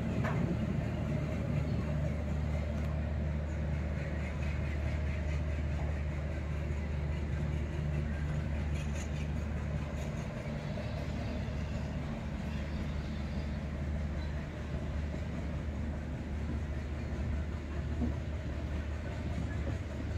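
Express passenger train running steadily, a continuous low rumble with a steady hum underneath.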